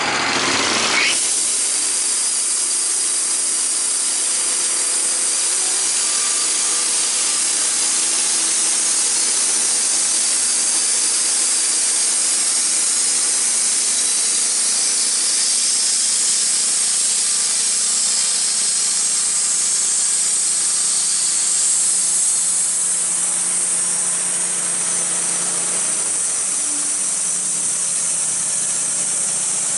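A saw cutting through wood: a steady hissing noise that starts about a second in, with an engine running faintly underneath.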